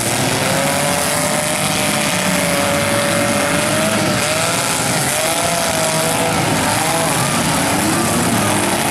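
Engines of several front-wheel-drive demolition derby cars running and revving together, their pitch rising and falling unevenly over a steady loud din.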